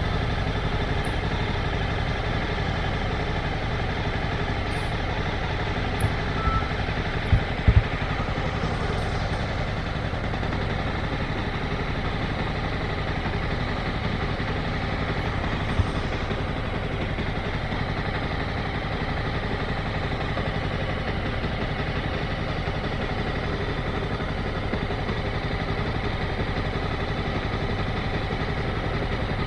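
Motorcycle engine idling steadily, with a few brief low thumps about six to eight seconds in and again about halfway through.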